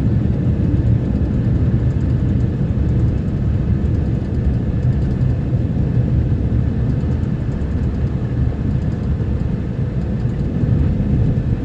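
Steady low rumble of a snowplow truck's engine and drive noise while it plows a road.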